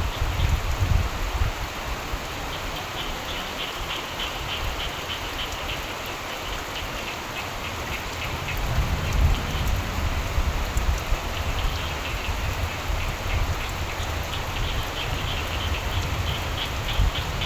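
Steady rain with frogs calling in fast, rattling trills in two spells, the second near the end. A deep rumble of distant thunder swells up about halfway through.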